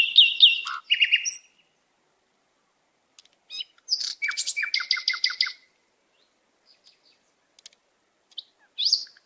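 Songbird calls: a quick run of high, downward-slurred chirps and a buzzy note, a pause, then a rapid trill about four seconds in, and one rising note near the end.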